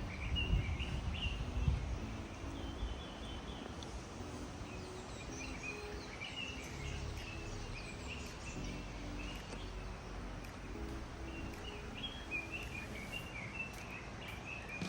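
Small birds chirping in short repeated calls over a steady hiss of outdoor background noise, with low rumbling thumps in the first couple of seconds.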